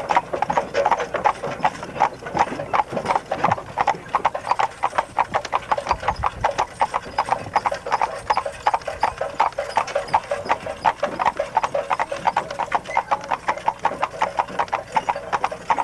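Horse hooves clip-clopping at a steady walk, about four hoofbeats a second.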